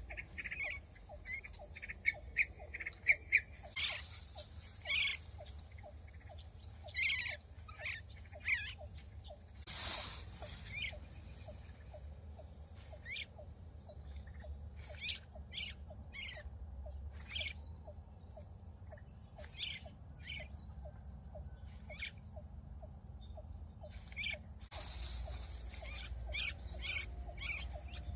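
Birds chirping in short, sharp calls at irregular intervals, over a steady thin high-pitched whine and a faint regular ticking about three times a second. A few brief bursts of rustling noise break in.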